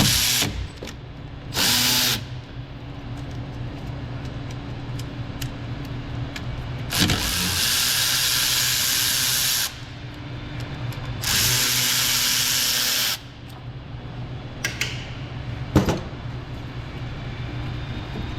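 Hissing from a spray or air tool during a brake job, in bursts: two short ones near the start, then two long ones of two to three seconds each. A steady low hum runs underneath, and there are a couple of sharp knocks near the end.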